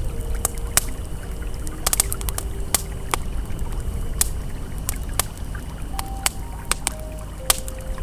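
Campfire crackling with irregular sharp pops over the steady rush of a flowing river. Faint held ambient tones shift in pitch every second or so underneath.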